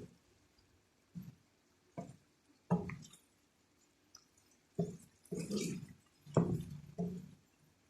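Thick coconut-milk sauce bubbling in the pan, giving soft, low plops at irregular intervals, about eight of them, closer together in the second half.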